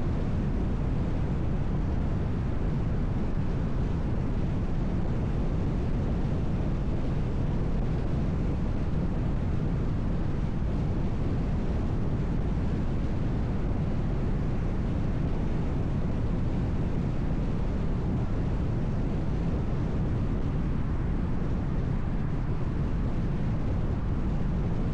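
Steady road and tyre noise of a car driving on a highway, an even low-pitched noise that does not change.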